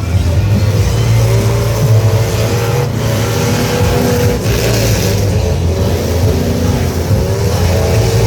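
Truck engines running loudly and revving, a steady low drone with pitch that wavers up and down.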